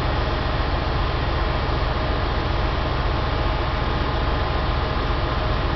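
Steady rumble and hiss of an electric high-speed train running slowly toward a station, with a few faint steady tones over the noise.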